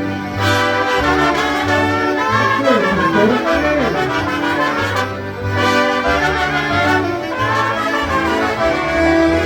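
Live polka music from a concertina jam band: concertinas playing over a steady bass beat, with a note that slides down and back up about three seconds in.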